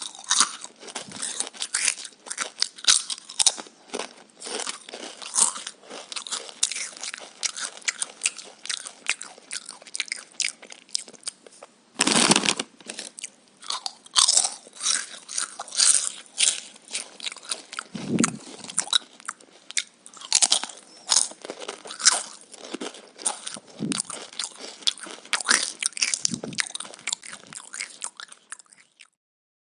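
Close-up crunching and chewing of raw vegetables: many sharp crunches a second, with a louder bite about twelve seconds in.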